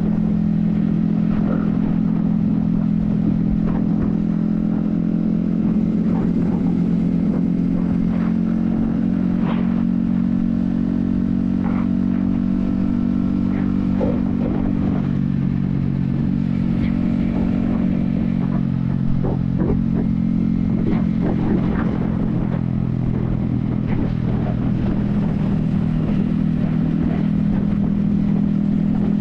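Yamaha XSR155's 155cc single-cylinder engine running at a steady cruising speed, heard from a helmet-mounted camera with wind rumble underneath.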